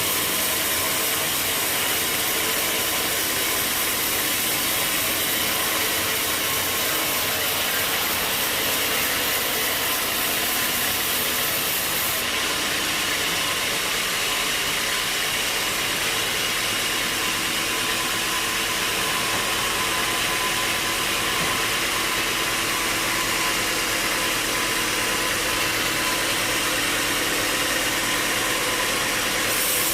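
Sawmill machinery running, a steady mechanical noise with a hiss on top; the higher part of the sound shifts slightly about twelve seconds in.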